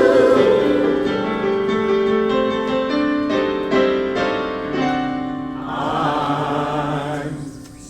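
Choir holding the last chord of a song as it fades, then a piano playing a short lead-in of single notes into the next song. A wavering held vocal sound comes in near the end.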